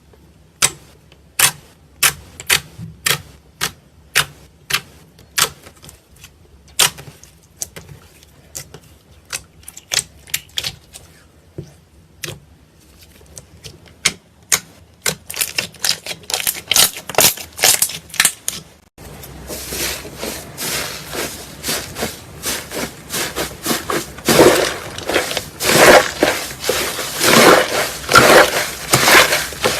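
Slime being squeezed and pressed by hand, making sharp popping clicks about two a second. About two-thirds of the way in the sound changes suddenly to a denser, louder crackling and squishing.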